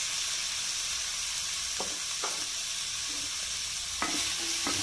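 Chopped chicken masala sizzling steadily as it fries dry in a frying pan. A wooden spatula stirs it, scraping and tapping the pan a few times around two seconds and four seconds in.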